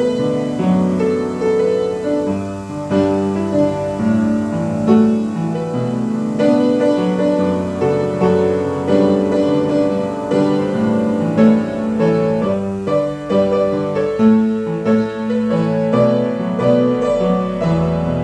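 Piano playing a slow, continuous piece: chords changing about every half-second over held bass notes.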